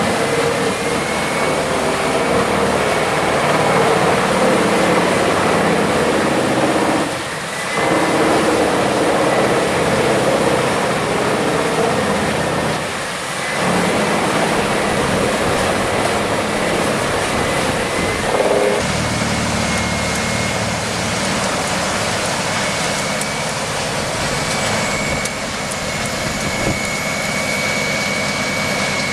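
Heavy machinery running loudly with a steady high-pitched whine over it. The sound dips and changes character a few times, about seven, thirteen and eighteen seconds in.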